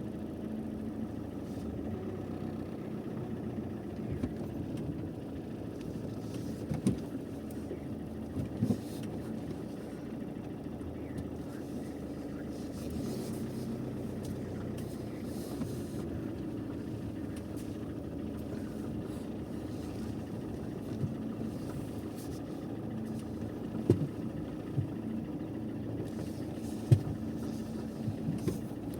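A steady engine drone, like a vehicle running, with a few short knocks and clicks scattered through it.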